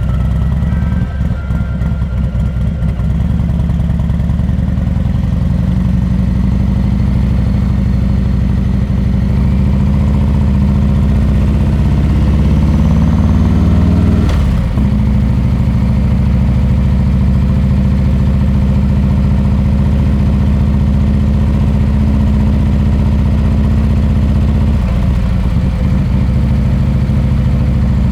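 Harley-Davidson Milwaukee-Eight 114 V-twin running through a Rinehart exhaust at a steady, low beat. Its note climbs slightly, drops off sharply for a moment about halfway through, then runs steady again.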